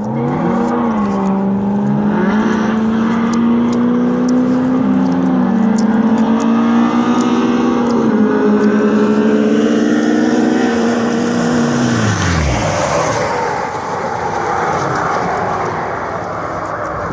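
Engines accelerating hard through the gears in a drag race. The pitch steps slightly at each shift, then drops steeply about twelve seconds in as a vehicle passes and pulls away, leaving a rushing noise.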